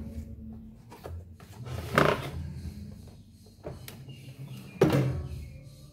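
Two clunks about three seconds apart, the second as loud as the first, from handling the opened air fryer's housing and tools, over a low steady hum.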